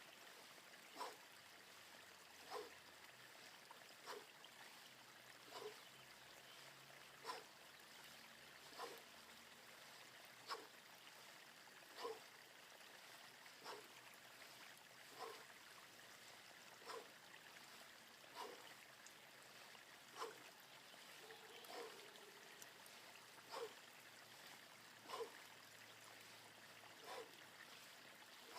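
Faint steady rain hiss, with a short, slightly falling sound about every second and a half in time with the swipes of a 35-pound all-steel club.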